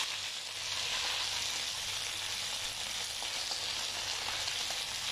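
Chicken and vegetables frying in hot oil in an aluminium pot: a steady sizzle.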